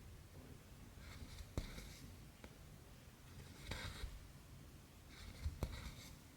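Needle and cotton thread being drawn through 11-count cross-stitch fabric: three short scratchy rasps, each under a second and spaced roughly a second and a half apart, with a few light clicks between them.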